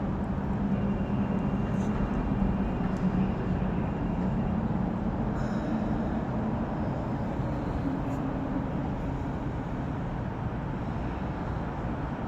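Steady low rumble of a running motor or vehicle, with a faint hum that drifts slightly in pitch partway through.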